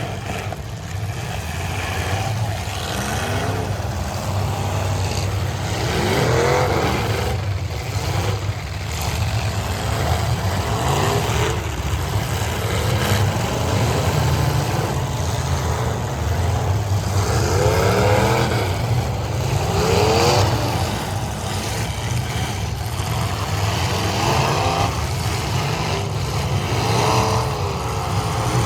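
Several demolition derby cars' engines running loud together, revved up and down again and again every few seconds.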